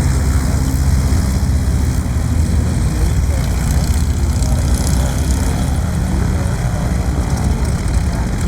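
WWII warbird radial piston engines running steadily at taxiing power, a deep propeller drone at an even level throughout.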